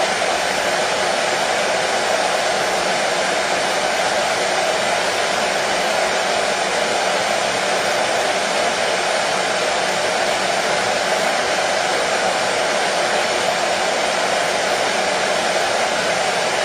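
Hair dryer running steadily, a constant blowing whir with no change in speed, played as soothing white noise for a colicky baby.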